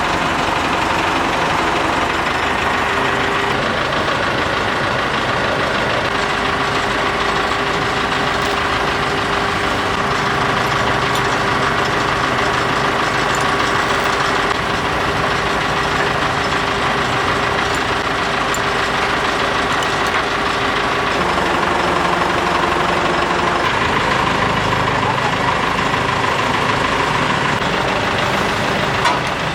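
Heavy machinery engine, most likely the excavator's diesel, running steadily with a constant whine over it. The whine drops slightly in pitch about 21 seconds in and fades out a few seconds later.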